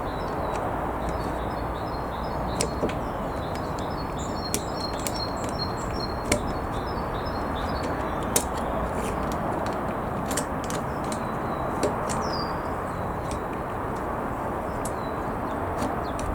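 Small birds chirping in quick repeated notes through the first half, over a steady background rush. Scattered light clicks and taps sound every second or two.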